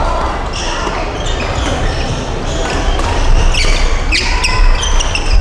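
Badminton play in a large indoor hall: court shoes squeaking on the sports floor, over and over, with sharp racket hits on the shuttlecock, echoing in the hall.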